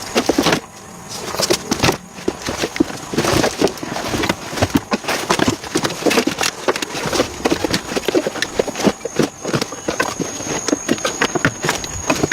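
A rapid, irregular series of knocks and clicks, several a second.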